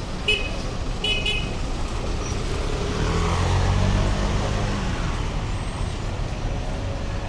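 A motor vehicle passing close on a busy street. It gives short high-pitched horn toots twice near the start, then a low engine rumble swells and fades, loudest about three to four seconds in.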